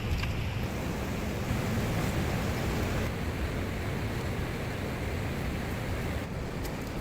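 Steady rushing wind, heaviest in the low end, with wind buffeting the microphone.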